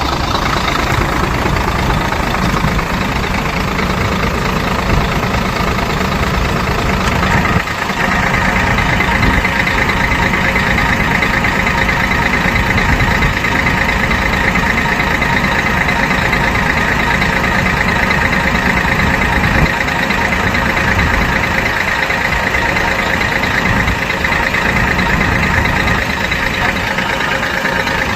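Scania truck's diesel engine idling steadily. About eight seconds in the sound shifts briefly, and a steady higher tone then runs above the idle.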